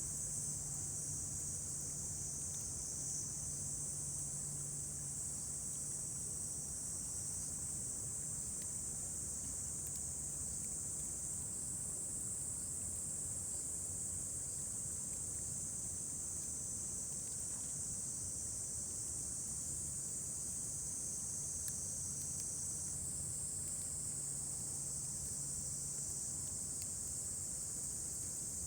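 A steady, high-pitched chorus of insects trilling without a break, with a faint low hum that fades out and comes back.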